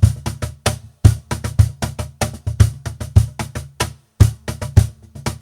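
Percussion playing a fast festejo rhythm, sharp strokes over deep thumps, with short breaks about a second in and about four seconds in.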